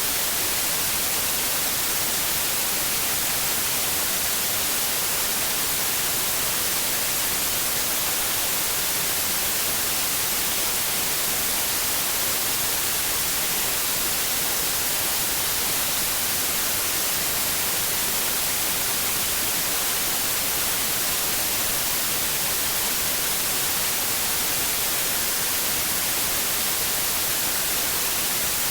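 Steady white noise: an even, unbroken hiss, brightest in the treble, that does not change.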